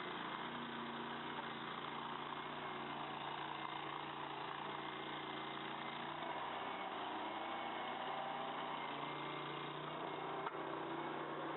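Mini skid steer loader's engine running steadily at an even speed, with one short click about ten seconds in.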